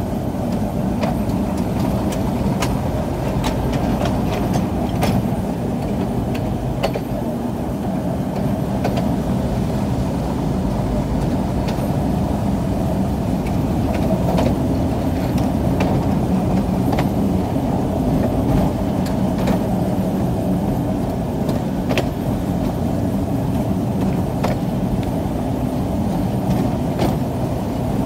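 Steady rumble of a train running, heard from aboard, with scattered light clicks.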